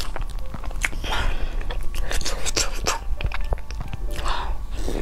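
Close-up mouth sounds of chewing and biting into a soft, heated persimmon-shaped cake with a runny filling: wet smacks and clicks, with two short rushes of breath.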